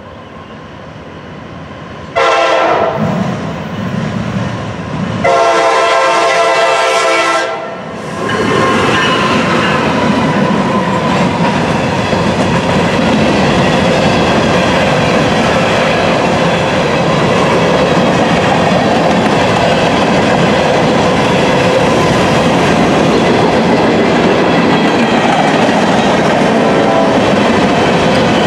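GE Dash 9-44CW diesel locomotive sounding its air horn in two long blasts, starting about two seconds in. Then a steady, loud rolling din as the freight train's covered hopper cars pass at speed, with wheels clattering over the rails.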